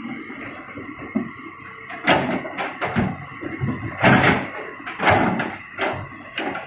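Stones knocking and thudding as they are loaded into a dump truck bed: a string of irregular impacts, loudest about two, four and five seconds in.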